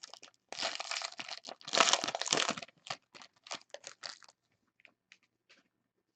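Trading card pack wrapper crinkling and tearing as it is opened by hand, loudest in the first few seconds, then a few scattered crinkles and ticks that die away.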